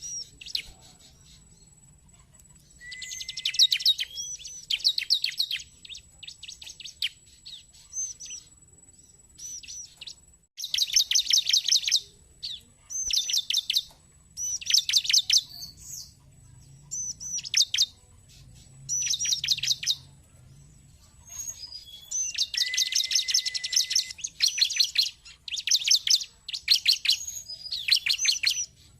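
Bar-winged prinia (ciblek) calling in bursts of fast, high chirps, each burst a second or two long with short pauses between them. A lure call used to stir up a kept ciblek.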